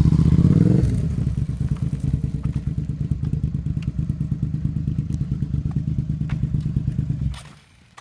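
Motorcycle engine revved up, dropping back to a steady pulsing idle about a second in, then cutting out suddenly near the end.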